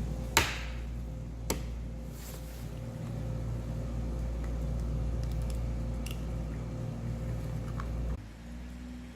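A steady low mechanical hum with a faint held tone, broken by two sharp clicks in the first couple of seconds; the hum cuts off abruptly about eight seconds in.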